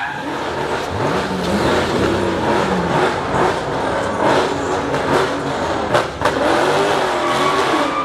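Car engine revving up and down with tyre squeal and skid noise as the car slides. A sharp pop about six seconds in.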